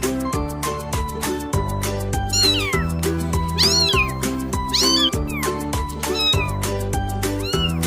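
A cat meowing about five times in short, high-pitched calls that rise and fall, over background music with a steady beat.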